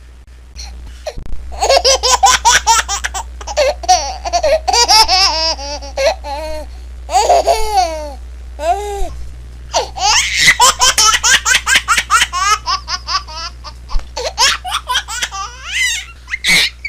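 A baby laughing in quick runs of high-pitched laughs, starting about a second and a half in, with a short pause near the middle before the laughter picks up again.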